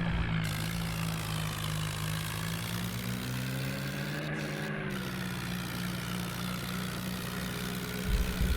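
Tractor engine running at a steady speed, its pitch easing up and down slightly partway through.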